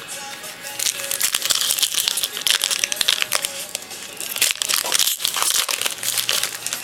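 Crinkling foil wrapper of a baseball card pack being handled and torn open.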